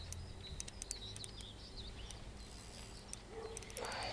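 Faint bird chirps, with scattered light ticks from a spinning reel as a hooked fish is being played.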